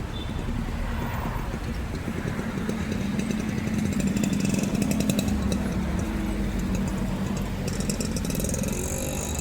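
An engine running steadily, growing louder around the middle and then easing off.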